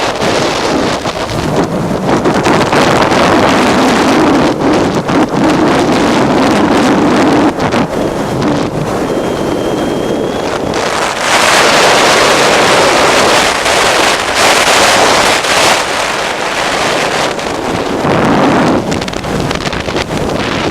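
Honda Transalp V-twin motorcycle engine running at road speed under heavy wind rush on the microphone. The wind noise swells louder for several seconds past the middle.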